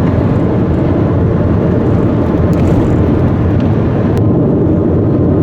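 A car driving: steady, even road and engine noise with no breaks.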